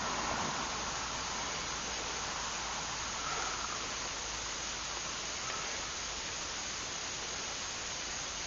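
Steady, even rushing hiss with no distinct events, and a short knock right at the end.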